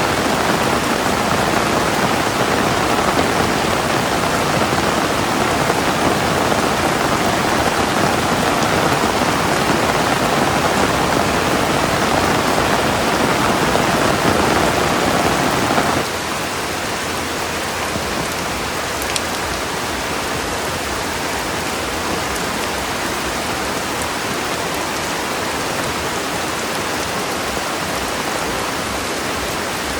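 Steady heavy rain, a dense even hiss of rainfall. About sixteen seconds in, it drops suddenly to a quieter, thinner rain sound that stays steady to the end.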